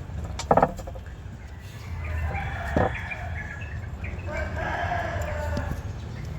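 Chickens calling, a shorter call about two seconds in and a longer one of about a second and a half near the end, with a sharp knock about half a second in.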